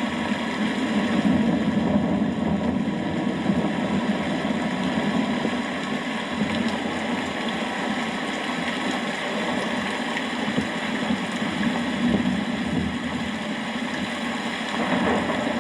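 Steady rain with a low rumble underneath that swells slightly now and then.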